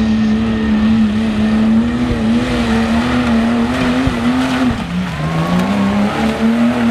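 Mud truck engine running at high revs, holding a steady high pitch. About five seconds in the revs drop briefly, then climb back up.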